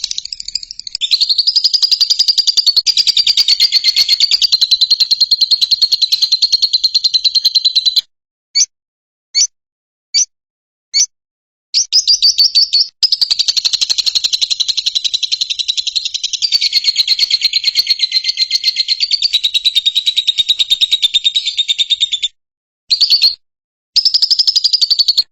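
A lovebird singing long, rapid chattering trills. One run lasts about eight seconds, then come four short separate chirps, then another run of about ten seconds, and a short burst near the end.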